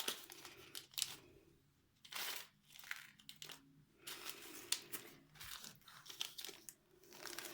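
Plastic packaging crinkling and rustling in irregular bursts as it is handled and rummaged through.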